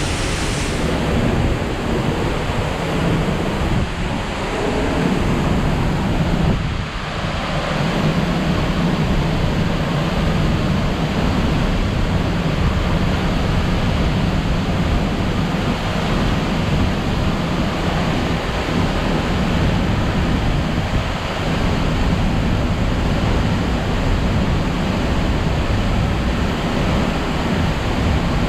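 A 110-foot waterfall in heavy flow, roaring: a loud, steady rush of falling water.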